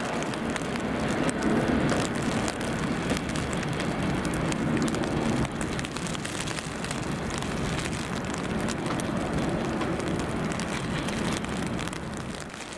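Steady rain and wind noise over two trains running in on adjacent tracks: a Class 390 Pendolino electric unit and a Class 158 diesel unit, with a low hum under the hiss.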